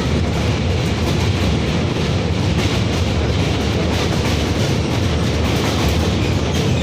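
Moving passenger train: steady rumble of the running gear with wheels clattering over the rail joints.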